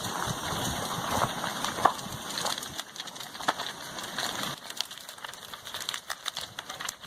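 Lava flow overrunning a house: an irregular run of crackling, clinking and crunching as the flow's crust breaks and debris gives way.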